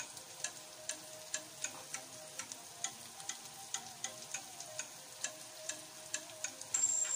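Bitter melon stir-fry sizzling in a frying pan, with small sharp pops about three times a second. The sizzle gets louder near the end.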